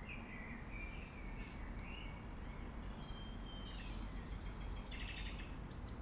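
Garden birds singing: chirps, warbling phrases and high trills follow one another, the brightest trill about four seconds in, over a steady low outdoor rumble.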